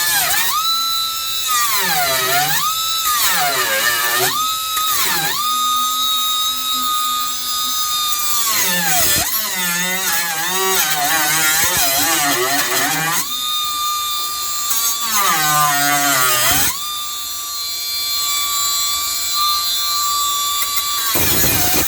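Power cutting tool whining at a high steady pitch, its pitch sagging and recovering several times as it bites into sheet steel during floor pan cutting, then spinning down just before the end.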